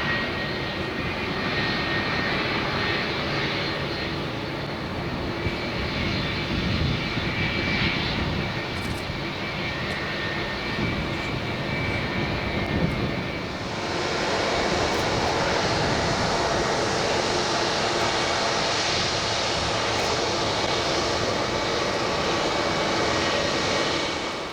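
Boeing 757-300 jet engines running at taxi power, a steady rush with a faint high whine. About halfway through, the sound becomes louder and brighter.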